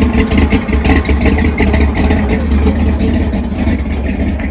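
Ford 302 small-block V8 idling steadily with an even, rapid firing rumble, sounding healthy.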